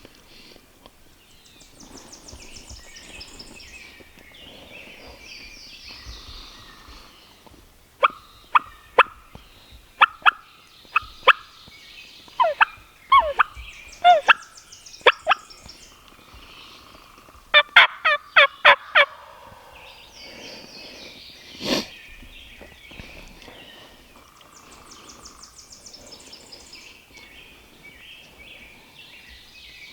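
Wild turkey calling: three runs of sharp, loud yelping notes, the last run faster, then one louder burst a few seconds later. Songbirds sing faintly throughout.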